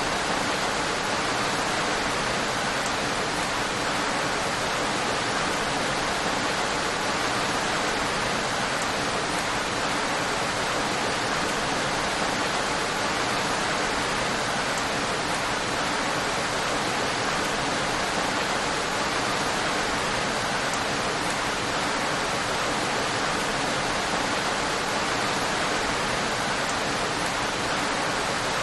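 Steady, even rain, an unbroken hiss of rainfall with no separate drops or gusts standing out.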